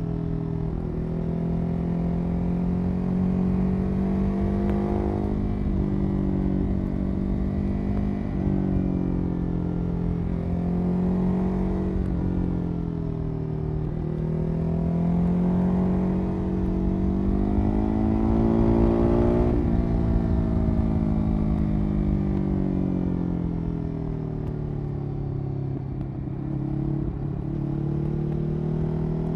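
Ducati 821 Testastretta L-twin engine heard through its exhaust, the revs rising and falling over and over: several slow climbs in pitch that each end in a sudden drop, then a long steady fall near the end.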